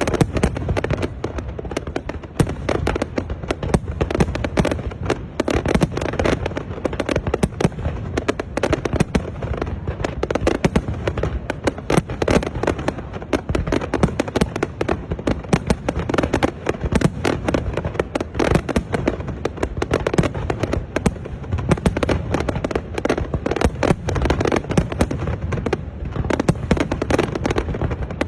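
New Year fireworks display: a dense, continuous barrage of shells bursting and crackling, many bangs a second.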